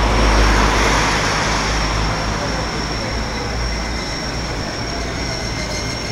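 Electric train running along the tracks: a steady rumbling noise that eases off slightly after the first couple of seconds, with a thin, steady high-pitched whine over it.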